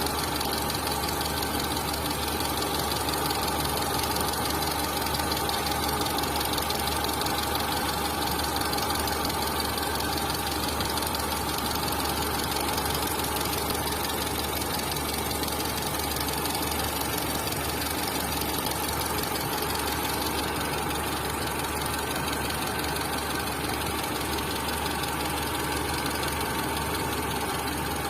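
Tata Zest engine running steadily at idle with a fast, even knocking tick, the camshaft noise the video is about.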